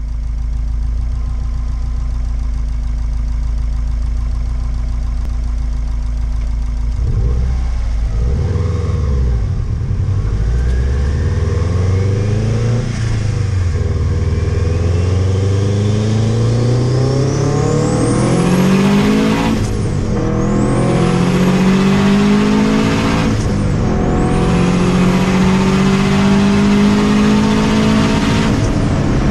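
Turbocharged Subaru EJ205 flat-four running steadily, then accelerating hard at full boost, heard from inside the cabin. The engine note climbs with a rising turbo whistle over it. In the second half three upshifts each drop the pitch before it climbs again.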